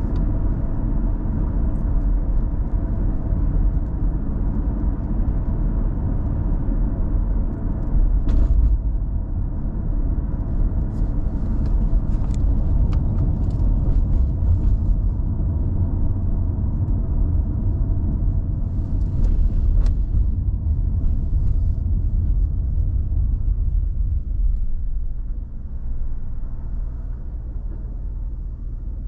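Car driving: a steady low road and engine rumble, with a few faint clicks along the way, easing slightly near the end.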